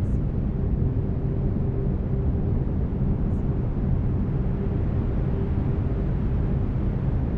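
Steady brown noise, a deep, even rushing hiss weighted toward the low end, with a faint steady tone held underneath through most of the stretch.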